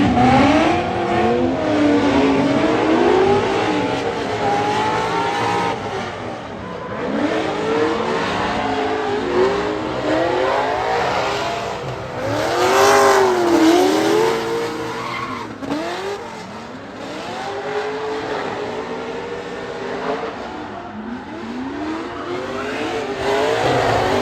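Drift cars on track: engines revving up and dropping again and again as the throttle is worked, over tyre squeal. The loudest pass comes about halfway through.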